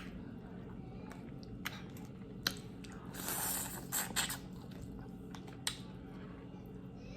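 Close-miked eating sounds: a person chewing food with a handful of sharp mouth clicks and a brief wetter, noisier stretch about three seconds in.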